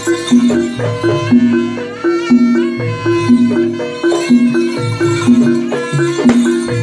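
Traditional East Javanese jaranan ensemble music, a short cycle of ringing pitched notes repeating about once a second under a higher melody line.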